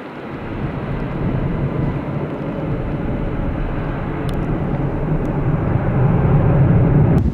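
Airliner's jet engines heard from outside: a steady rushing noise with a low rumble that grows louder, then cuts off abruptly near the end.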